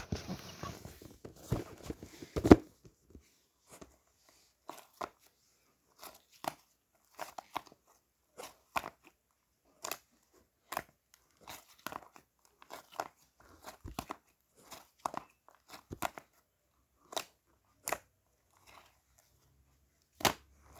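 Irregular crunches and clicks, a few a second with short silent gaps between them.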